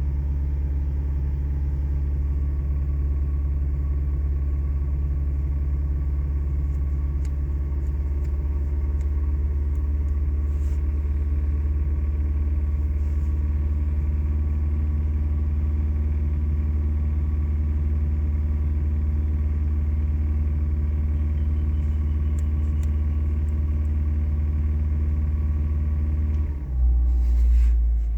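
Car engine running at a steady idle with a deep, even exhaust note. About a second and a half before the end, the sound changes abruptly and becomes briefly louder and lower.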